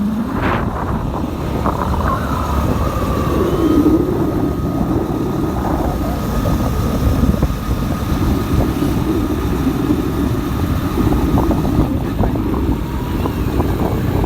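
Motorcycle riding along a road: its engine and the road noise run steadily, with a thin steady whine above them from about two seconds in.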